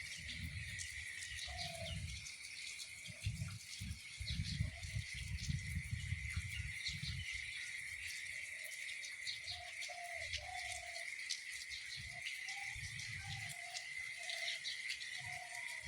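Outdoor rural ambience: short bird calls repeating over a steady high-pitched insect drone, with an irregular low rumble underneath.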